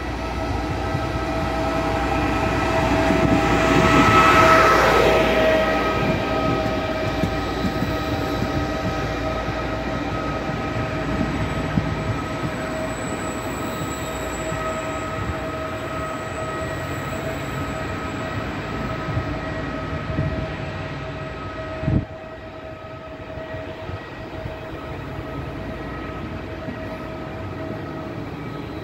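Regional train, an electric locomotive hauling double-deck Vivalto coaches, running past along the platform: the locomotive passes loudest about four seconds in, then the coaches roll by with a steady high whine. A short knock about 22 seconds in, after which the sound is a little quieter.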